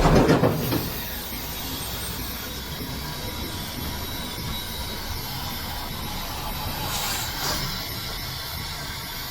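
Vacuum cleaner running steadily: an even rushing noise with a faint steady whine, louder in a surge during the first second.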